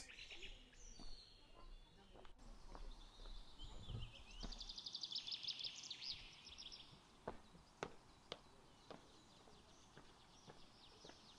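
Faint open-air quiet with small birds chirping, including a quick trill of rapidly repeated chirps a few seconds in, then a few light taps.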